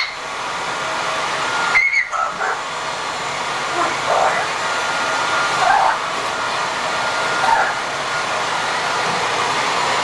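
A steady rushing hiss, with a few faint short chirp-like sounds over it every second or two.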